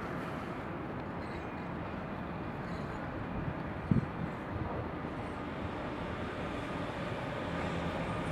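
Train running through a railway station, a steady rumble, with one sharp knock about four seconds in.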